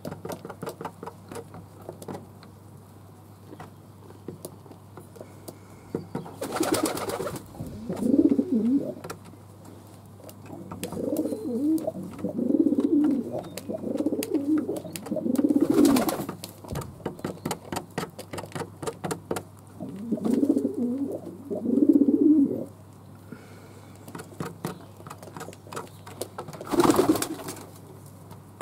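Fantail doves cooing in several low, drawn-out bouts, with three short bursts of rustling noise and scattered light clicks between them, over a steady low hum.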